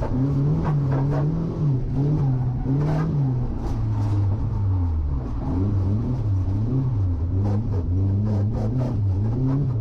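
Nissan 240SX (S14) drift car's engine revving up and down over and over as the throttle is worked, its pitch rising and falling about once a second.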